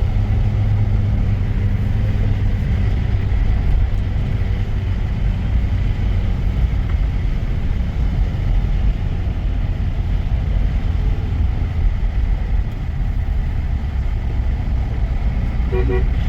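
A motor running steadily with a low hum, under a constant low rumble.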